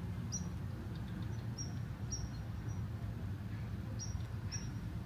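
A small bird chirping: short, high chirps repeating at irregular intervals, about every half second to a second, over a low steady rumble.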